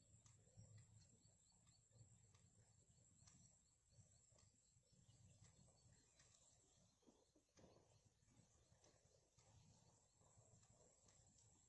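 Near silence: faint outdoor ambience with a steady thin high tone and scattered faint ticks.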